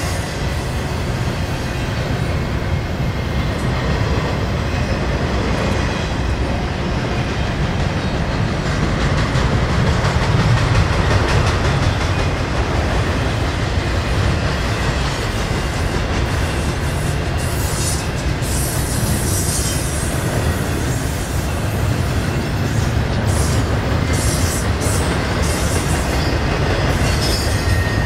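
BNSF double-stack intermodal freight train rolling past: a steady rumble and clatter of the well cars' wheels on the rails, with brief high wheel squeals in the second half.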